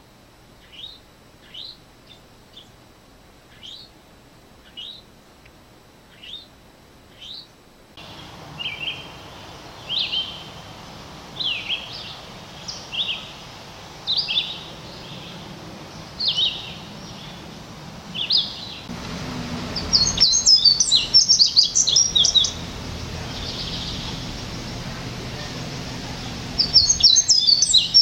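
Wild bird calls and songs from several field recordings played one after another: first short high downslurred notes about once a second, then louder slurred whistled notes every second or so, then a fast jumbled high-pitched song twice, the second time near the end, over steady outdoor background noise.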